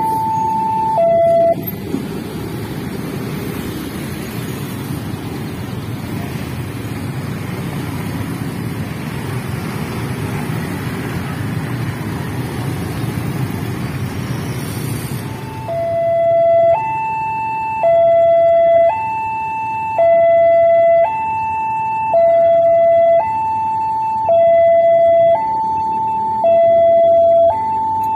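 Railway level-crossing warning alarm alternating a higher and a lower tone, each held about a second. About two seconds in it is drowned for some fourteen seconds by a passing train's steady rushing rumble of wheels on rails, then it comes back clearly and keeps sounding, the crossing still closed.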